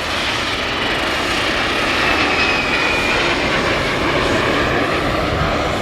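Aircraft flying past: loud, steady engine noise with a faint whine that falls slowly in pitch partway through.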